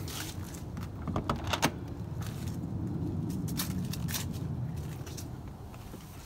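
A scatter of sharp clicks and knocks over a low rumble, the loudest about a second and a half in: handling sounds of getting into a car, such as a door latch and keys.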